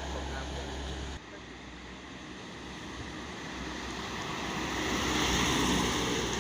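Road noise of a vehicle, likely a truck, passing: a hiss of tyres and engine that swells to a peak near the end and then eases. About a second in, a low steady hum cuts off suddenly.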